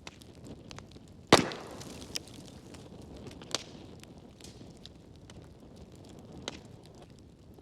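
Wood fire crackling in a fireplace: scattered small crackles, with one loud pop about a second in that hisses briefly, and a few smaller pops later.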